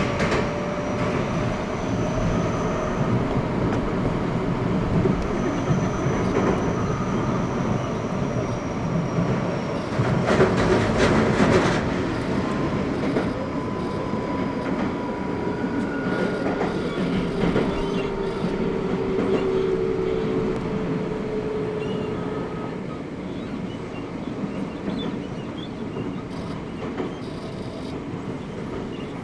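Running sound inside an Eidan 05 series (N05) electric train car: a steady rumble of wheels on rail, with faint thin whining tones coming and going. There is a louder rattling stretch about ten seconds in, and the sound eases off somewhat over the last few seconds.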